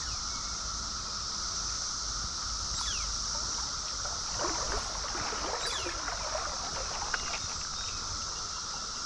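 Steady droning chorus of Brood XIV periodical cicadas over the rush of a stream. Water sloshes and splashes for a few seconds around the middle.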